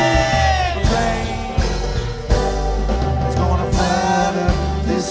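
Live band music: a held sung note bends down and fades within the first second, then the band plays on with strong bass notes and drum hits, and a short pitched phrase comes in around four seconds in.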